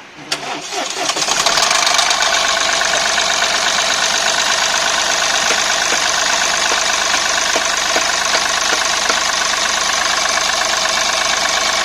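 Mahindra Bolero BS6's three-cylinder diesel engine starting just after the start and settling within a second or two into a steady idle.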